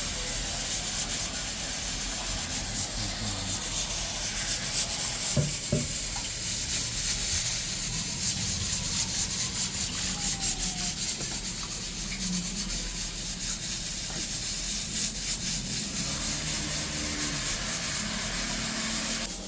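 Rice being washed by hand: the grains are rubbed and swished in water, giving a rough, pulsing rubbing over a steady hiss. There is a brief knock about five seconds in.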